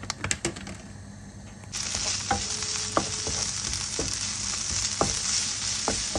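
Strips of speck sizzling as they fry in oil in a frying pan, stirred with a wooden spoon that taps against the pan now and then. The sizzle starts suddenly about two seconds in; before that there are only light clicks.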